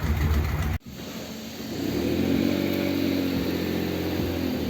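Old Ford Thunderbird's engine idling, cut off abruptly a little under a second in, after which an engine runs steadily again.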